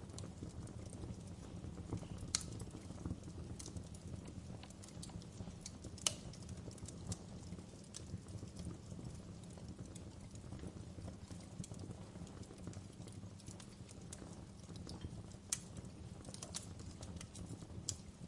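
Wood fire burning in a fireplace: a steady low rumble with irregular crackles and sharp snaps, the loudest about two and a half seconds and six seconds in.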